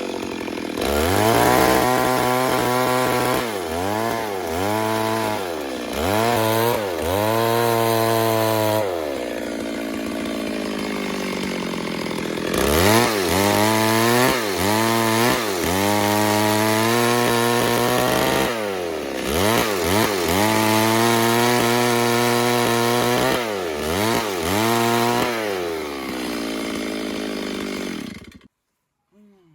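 Stihl MS 382 two-stroke chainsaw revving, its pitch rising and falling over and over, with a stretch of steadier running. It cuts off abruptly near the end.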